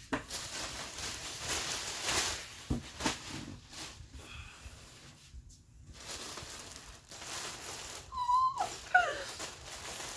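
Paper and plastic packaging rustling and crinkling as items are unwrapped. Near the end, a dog whines: one short steady whine, then a few brief whimpers that slide up and down in pitch.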